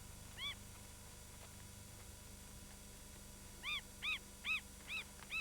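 A bird calling a series of short, clear whistled notes, each rising then falling in pitch: a single note about half a second in, then a steady run of about two notes a second near the end.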